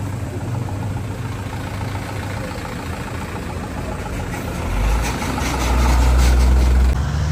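Motor vehicle engines idling steadily, with a louder, deeper engine rumble and some rattling from about five to seven seconds in.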